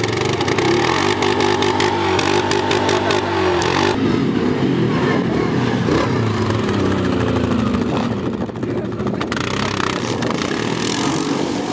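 ATV engine revving under load, its pitch holding for a few seconds and then rising and falling repeatedly.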